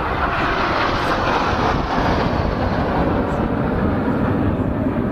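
BAE Systems Hawk T1 jets flying by with a loud, steady roar from their Rolls-Royce Adour turbofans. The sound is brightest in the first two seconds, then turns duller and lower.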